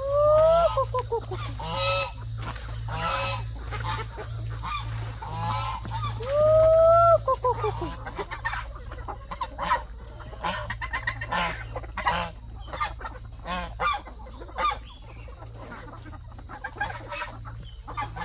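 Poultry calling: two loud, drawn-out honking calls, one at the start and one about six seconds in, among many short clucking calls, over a steady high-pitched whine.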